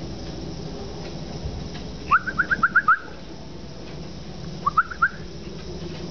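A bird calling: a quick run of about seven short, rising notes about two seconds in, then a shorter run of three or four near the end.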